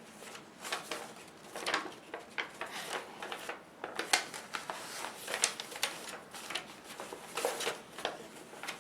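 A sheet of paper being unfolded and handled, with irregular rustling and crinkling as it is opened and smoothed.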